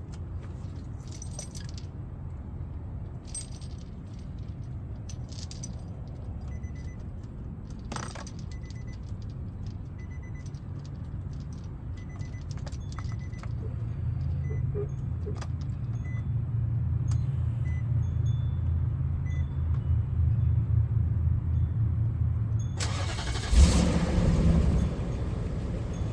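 Infiniti QX56's 5.6-litre V8 idling as a steady low hum that grows louder about halfway through, with scattered light clicks and key jingles. Near the end comes a loud rustling burst with a sharp thump.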